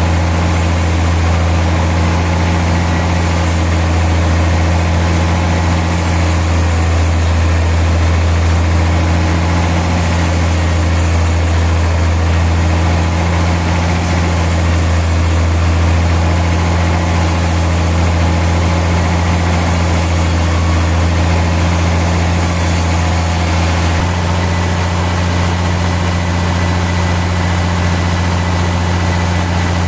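Sawmill machinery running steadily with a deep, even hum, like a heavy engine or motor idling; the tone shifts slightly about three-quarters of the way through.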